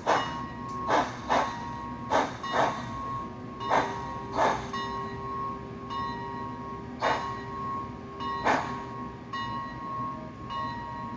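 Sound decoder in an HO scale 2-6-6-2 steam locomotive model playing steam exhaust chuffs through the model's small speaker. The chuffs come in pairs that spread further apart as the engine slows, over a steady high-pitched hum.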